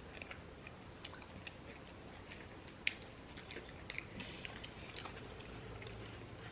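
Close-up chewing and mouth sounds of people eating, with scattered small wet clicks and one sharper click just under halfway through.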